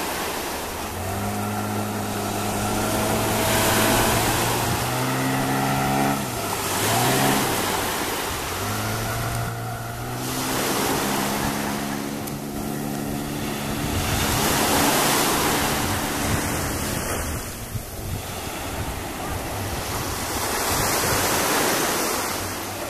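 Outboard motor driving a small boat, its note steady, then dropping and climbing back about seven seconds in, before fading out after about fourteen seconds. Heavy rushing wind and water noise swells and ebbs throughout.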